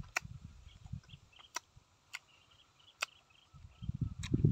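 A man chewing roasted squid close to the microphone: sharp wet lip smacks and mouth clicks about once a second over low chewing sounds, which grow louder near the end.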